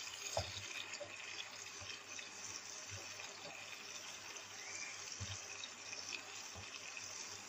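Chopped onions and green chillies sizzling gently in hot oil in a non-stick frying pan, a steady faint hiss, with a few soft knocks from stirring.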